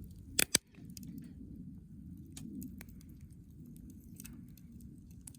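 Wood campfire crackling, with scattered small pops and two loud sharp cracks in quick succession about half a second in, over a low steady rumble.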